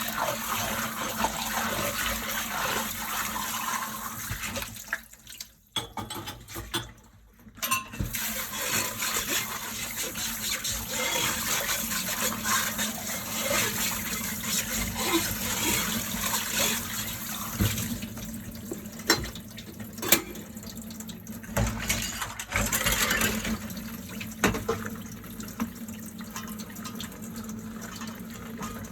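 Kitchen tap water running into a sink during hand dishwashing, with two short breaks about five and seven seconds in. A few sharp clinks of dishes come later on.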